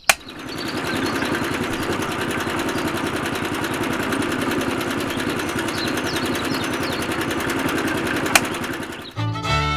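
Small motor-driven model machine running steadily with a fast rattle. It starts with a click and builds up over the first second, then winds down near the end.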